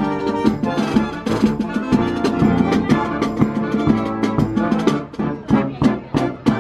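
A live brass band with drums playing: full brass and percussion over a steady beat, breaking into sharp separate drum strikes near the end.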